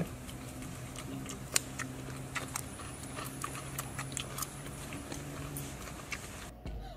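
Wet chewing and lip-smacking of people eating, heard as irregular sharp clicks and smacks over a steady low hum.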